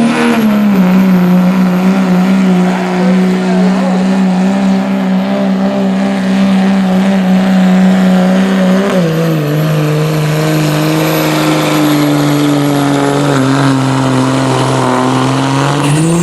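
Diesel pickup truck pulling a weighted sled, its engine running hard at steady revs with a high, steady turbo whistle. About halfway through the engine pitch drops and keeps sinking slowly as the engine lugs under the sled's growing load, then near the end it rises briefly and falls away as the pull ends.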